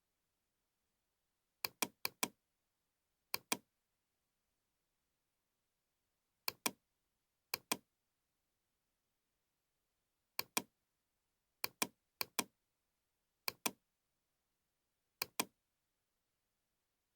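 Computer mouse clicking in quick pairs, about ten double-clicks spaced irregularly, with dead silence between them.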